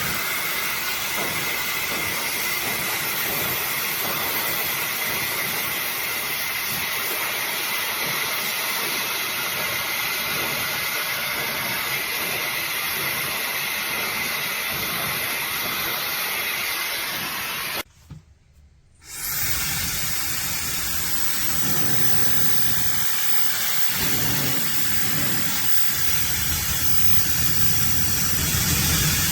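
High-speed ionic hair dryer blowing steadily: a loud rush of air with a thin steady whine. It cuts out for about a second about two-thirds of the way through, then comes back with a deeper rumble.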